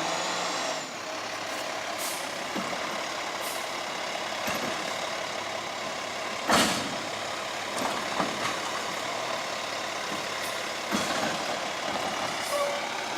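Diesel garbage truck running steadily, with short air hisses and one loud burst of air about six and a half seconds in, typical of the truck's air brakes.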